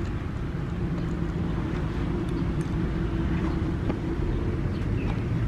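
Steady low rumble of background noise with a faint, even hum underneath.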